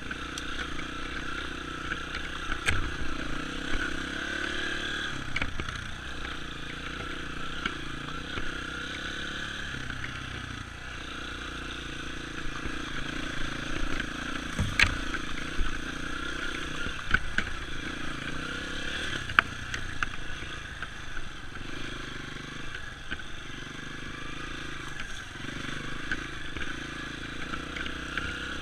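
Dirt bike engine running on a trail, its pitch rising and falling repeatedly as the throttle opens and closes, with scattered sharp knocks and clatter.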